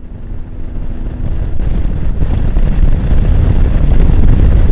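Honda X4 inline-four motorcycle engine running under way, with wind rush on the mic, growing steadily louder over the first few seconds.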